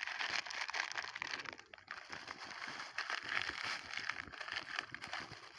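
Plastic litter crinkling and rustling as it is handled and stuffed into a plastic bag, a dense crackle with a brief lull a little under two seconds in.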